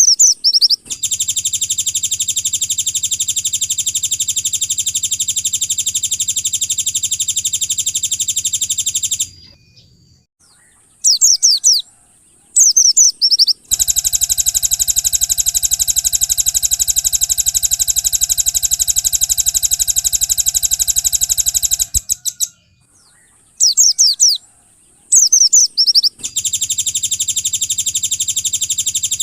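Recorded songbird song from a masteran (song-tutor) track: short bursts of quick, sweeping high whistles alternate with long, even, buzzing trills of about eight seconds each. The second trill starts about a third of the way in, and a third starts near the end.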